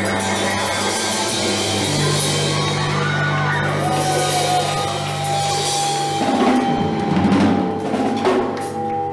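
Punk rock band playing live: bass and guitar holding long chords over the drum kit, with a steady high ringing note coming in about four seconds in and heavier drumming in the second half.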